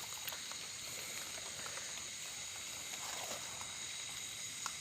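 Steady night chorus of crickets and other insects, a continuous high trill, with a few faint clicks.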